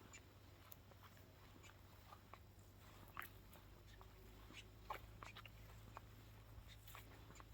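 Near silence: a faint low wind rumble on the microphone, with scattered faint clicks and ticks.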